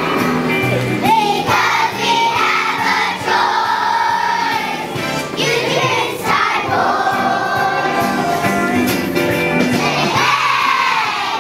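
A group of kindergarten children singing a song together as a choir, with music playing along.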